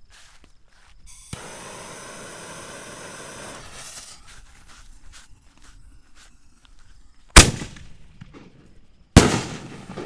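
Fireworks canister shells: a rushing hiss for about two seconds, then two sharp, loud bangs about two seconds apart, each echoing away.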